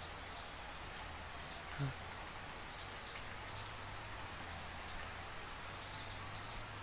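Forest insects droning steadily, with short high chirps repeating every second or so over a low steady hum.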